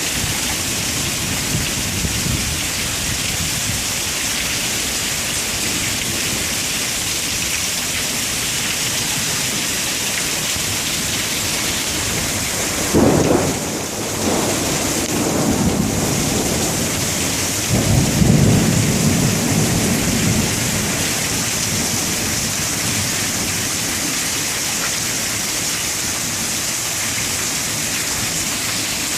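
Heavy rain pouring steadily in a thunderstorm. A sudden clap of thunder breaks in about thirteen seconds in, and a longer, louder rumble follows about five seconds later.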